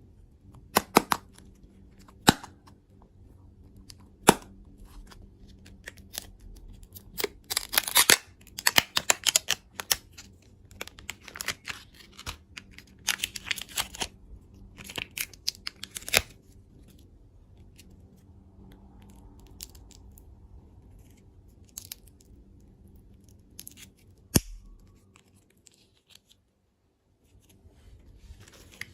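Candy wrappers and packaging being torn open and handled: single sharp clicks, then several bursts of crackling and tearing. Another click comes near the end, followed by a few seconds of dead silence.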